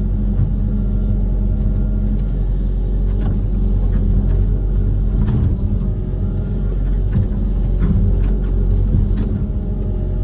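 Diesel engine of a Kobelco SK130 amphibious excavator running steadily under load, with a few brief knocks.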